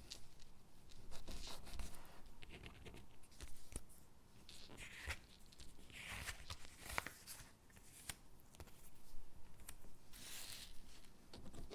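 Stickers being peeled off their backing sheet and pressed onto paper gingerbread cutouts. There are soft peeling swishes every few seconds between light paper rustles and small taps.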